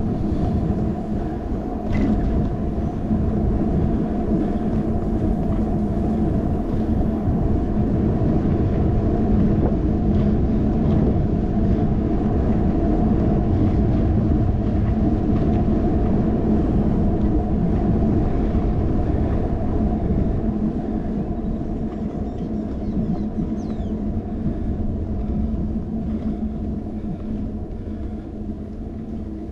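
Steady wind and road rumble on a handlebar-mounted GoPro while cycling, with a faint steady hum underneath; it eases slightly after about twenty seconds.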